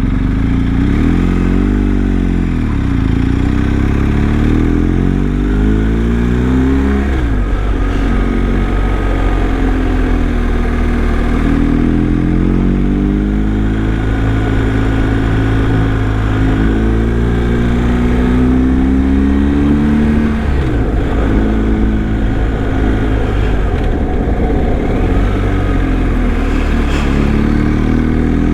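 Motorcycle engine running on the move, its pitch rising and falling again and again as the rider works the throttle and gears up the pass, with a brief drop about twenty seconds in.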